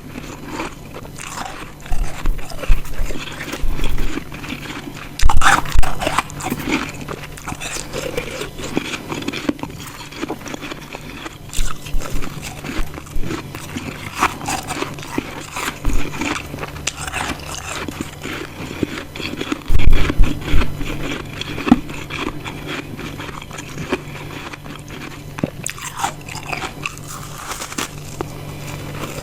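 Close-miked biting and chewing of ice chunks and frost: irregular crisp crunches, the loudest bites about five seconds in and again about twenty seconds in.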